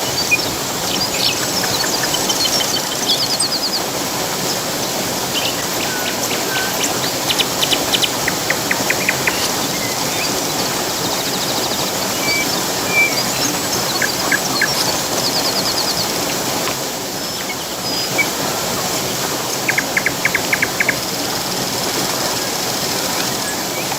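Steady rush of a waterfall, with songbirds calling over it: short high trills and quick runs of chirps every few seconds.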